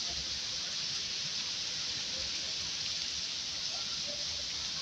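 Steady rain falling on a wet street and pavement, an even, unbroken hiss.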